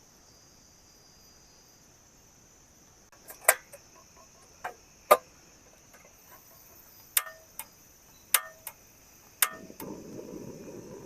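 Steady high chirring of night insects, with seven or so sharp knocks and clicks from about three seconds in, and a rough rustling, scraping noise starting near the end.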